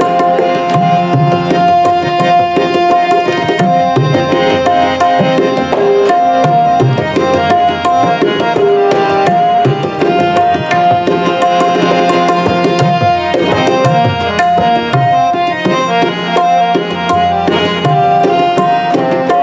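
Instrumental kirtan interlude: tabla playing a steady, busy rhythm under a harmonium holding and stepping through the melody, with no singing.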